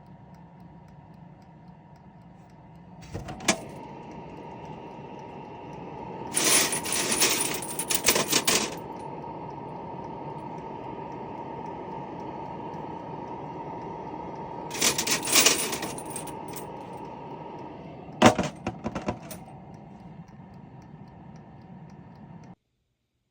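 Brass rifle cartridge cases clinking and clattering against metal in several short bursts, over a steady mechanical hum from running reloading equipment.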